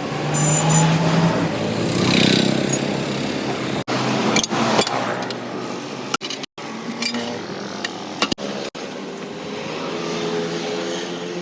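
Motor vehicle engine running amid street noise, broken by several abrupt cuts.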